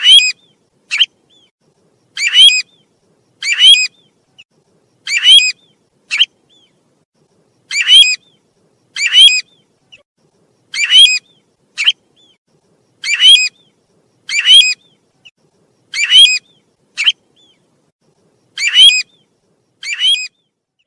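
Recorded calls of the bird sold in Vietnam as "tu huýt", played as a trapping lure: short, harsh, chattering calls, mostly in pairs, repeating steadily about every second and a half.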